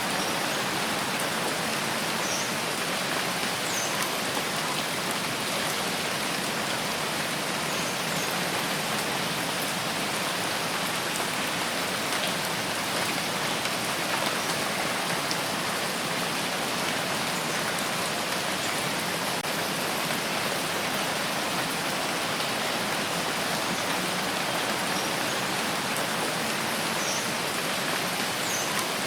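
Steady rain falling, an even hiss of many drops that doesn't change.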